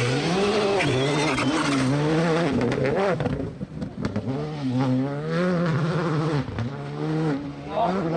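Rally car engine revving hard, its pitch climbing and dropping again and again with throttle and gear changes, over a hiss of tyre and road noise.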